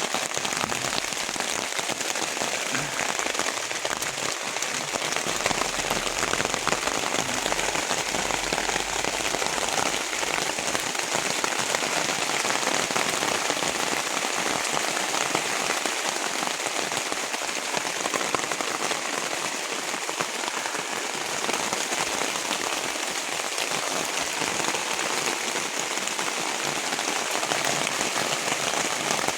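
Rain falling steadily: an even hiss of countless drops that does not let up.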